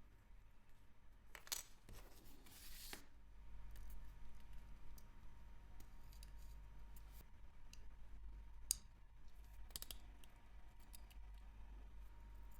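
Small metal hand tools clicking and scraping against a wristwatch: scattered light clicks, a short rasping stroke about two to three seconds in, and a sharper click about nine seconds in.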